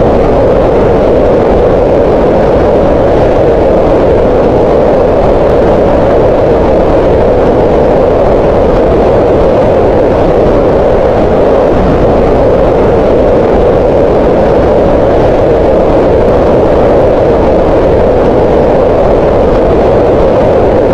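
Green noise: a loud, perfectly steady hiss with its energy gathered in the middle range around 500 Hz, softer in the lows and highs, with no changes or events.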